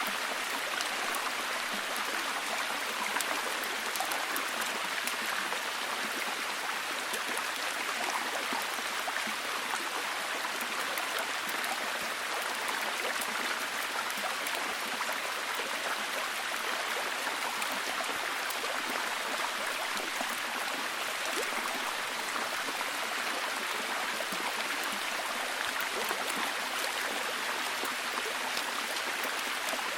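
Steady heavy rain: an even hiss of falling water with fine scattered drop ticks, unchanging throughout.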